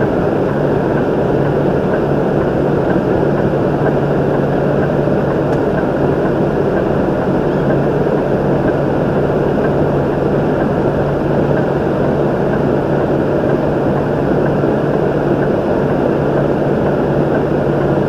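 Steady drone of a Kenworth semi truck's diesel engine and cab noise heard from inside the cab, with a constant low hum.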